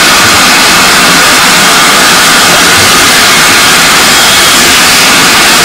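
Loud, steady hiss of a steam-hauled train heard from a carriage window, with no distinct chuffs, whistle or clanks standing out.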